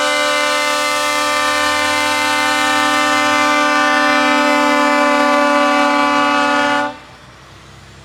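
Truck air horn sounding one long, steady blast that cuts off suddenly about seven seconds in, leaving a quieter low engine rumble.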